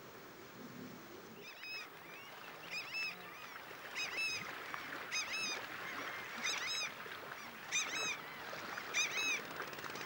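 Water birds calling: short runs of two or three high notes that rise and fall, repeated about once a second, starting a second and a half in, over a soft steady hiss.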